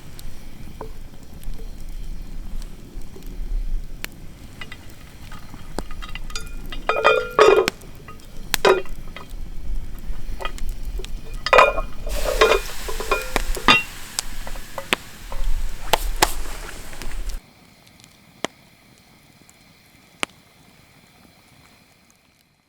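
Campfire cooking: metal utensils knocking and clinking against a pan, with a stretch of frying sizzle over the middle. It cuts abruptly to a quiet background about three quarters of the way through.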